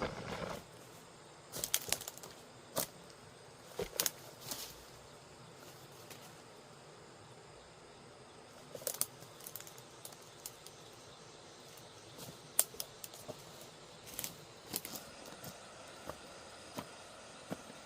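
Irregular light clicks and knocks, about a dozen scattered through, over a quiet steady background; the loudest comes a little past the middle.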